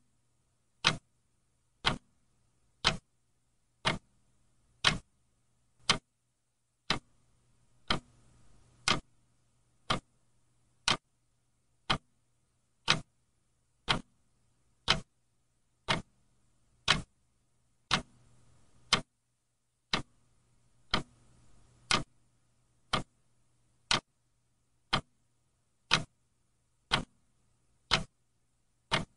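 Clock ticking steadily, one sharp tick each second, evenly spaced.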